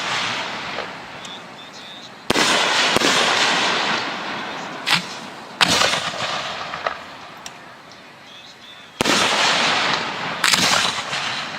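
Professional fireworks display: about five sharp bangs from aerial shells, each trailing off over a second or two.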